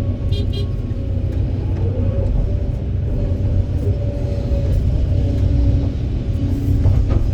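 Diesel engine and hydraulics of a Kobelco SK200 excavator working, a steady low rumble with a faint wavering whine. A few light metallic clinks come shortly after the start, and a sharp clank near the end.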